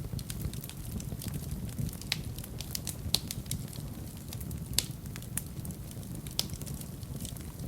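Wood fire burning in a fireplace: a steady low flame rumble with constant crackling and sharp pops, the loudest about three, five and six and a half seconds in.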